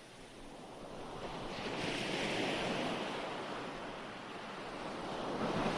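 Ocean waves breaking and washing on a shore, a recorded surf track that swells to a peak about two seconds in, eases off, then builds again near the end.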